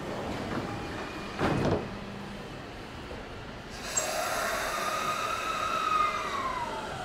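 E231 series 500 commuter train standing at the platform. About a second and a half in there is a short hissing burst. From about four seconds the train's equipment sets up a louder hum, with a whine that rises a little and then slides down in pitch.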